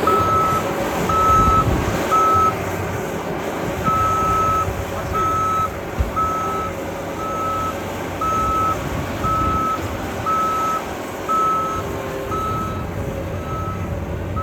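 Reversing alarm of a snow-clearing machine, beeping about once a second with a short pause about three seconds in, over the steady rumble of its engine as it backs up while clearing snow.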